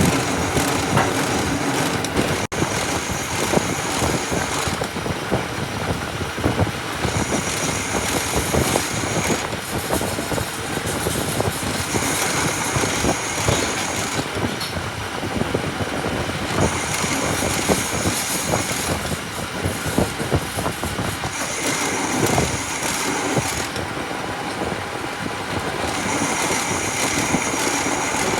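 Workshop metalworking machine running under load, a dense crackling noise with a higher-pitched whine that comes in for about two seconds every four to five seconds.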